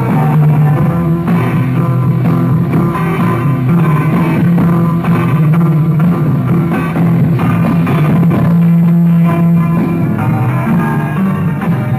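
Live rock band playing an instrumental passage with no singing: electric guitar over bass guitar and drums.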